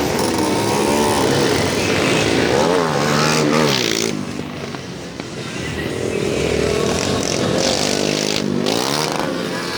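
Motorcycle engine revving hard and easing off, its pitch rising sharply twice, about three seconds in and again near the end, with a quieter lull in between.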